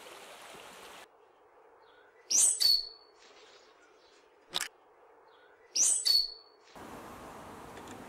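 Two short, high bird calls about three and a half seconds apart, each a sharp burst that drops into a brief whistled note. A single sharp click sounds between them.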